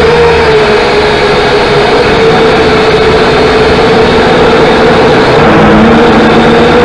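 Small quadcopter drone's motors and propellers running, a loud, steady whine that wavers slightly in pitch.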